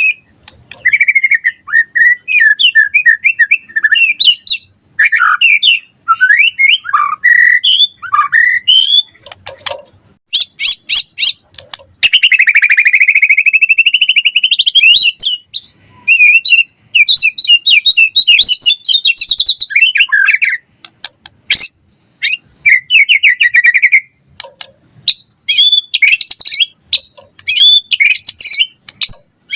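White-rumped shama singing a long, varied song of loud whistled phrases, fast trills and chatters with short pauses between them, including a sustained buzzy trill about halfway through.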